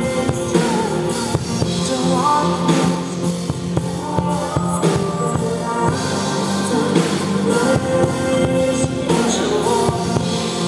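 Live band playing an instrumental passage of a pop-rock song, with drum kit and guitar over sustained chords.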